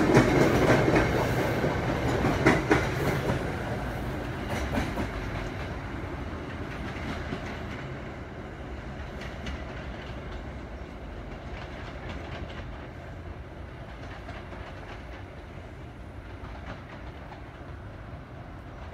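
MBTA commuter rail coaches rolling past, their wheels clicking over the rail joints, then the train's rumble fading steadily as it pulls away.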